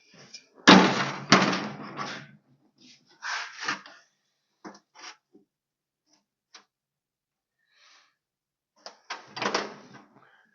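A metal straight edge clanking down twice on a sheet-steel hood panel, then scattered scrapes and taps as a line is laid out on the steel.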